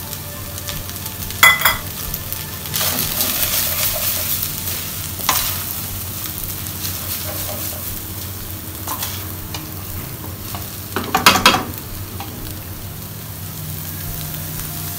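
Egg frying in hot oil in a steel pan, sizzling steadily, with a few sharp clinks of a utensil against the pan; the loudest is a quick cluster of clinks about eleven seconds in.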